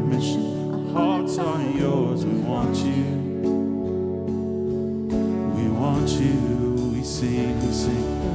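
Contemporary worship music: a band playing a slow song with guitar and sustained chords, with some wordless or unclear singing between lyric lines.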